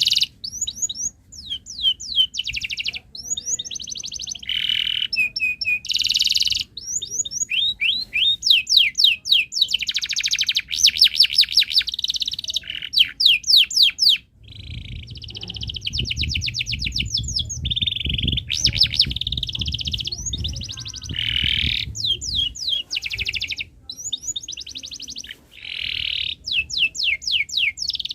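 Domestic canary singing continuously: long rolls and trills of rapid repeated high notes, phrase after phrase with only brief breaks.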